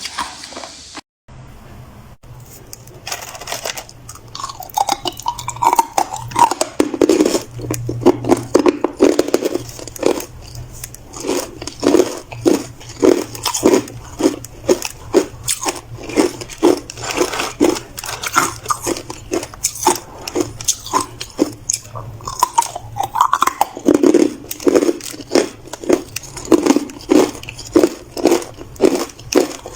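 A person biting and chewing hard ice in a rapid run of sharp crunches, about two to three a second, after a short break about a second in.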